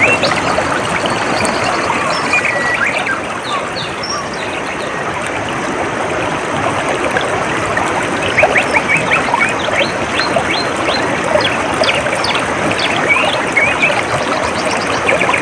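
Water trickling steadily in a calm stream, with birds chirping over it; the chirps come sparsely at first, then in quick runs of short notes from about halfway through.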